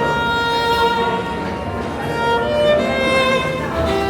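Violin playing a slow melody of long held notes, with a few gliding changes of pitch.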